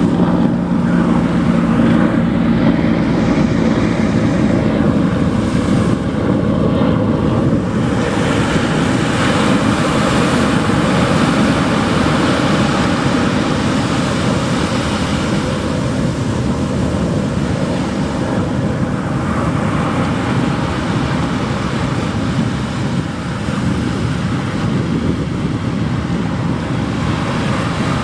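Pacific Ocean surf washing onto the shore in a steady continuous rush, with wind on the microphone. A low droning hum sits underneath for the first several seconds.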